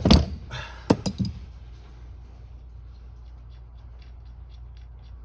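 A wrench on a carburetor power valve: a loud sharp crack at the start, a few more sharp knocks about a second in, then a run of light ticks about four a second.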